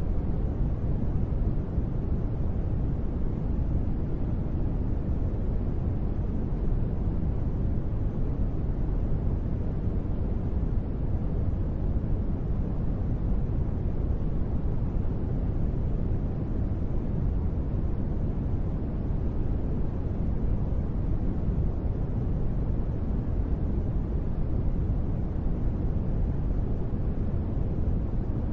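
A steady, deep white-noise sleep track billed as gentle rain. It is an even, unbroken hiss weighted toward the low end, with no separate drops or pattering.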